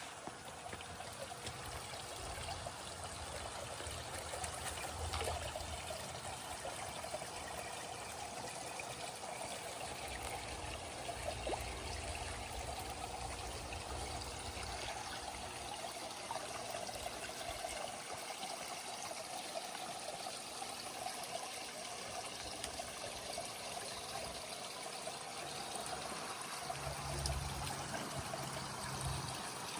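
Water trickling and splashing steadily into a koi pond, its flow kept up by the pond's running pumps. A low rumble comes and goes underneath.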